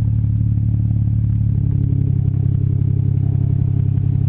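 BMW 335i's turbocharged inline-six idling warm through a 3.5-inch stainless steel aftermarket exhaust, a steady low drone that grows fuller about a second and a half in.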